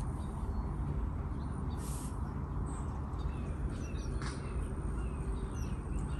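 Small birds chirping faintly in short calls over a steady low outdoor rumble.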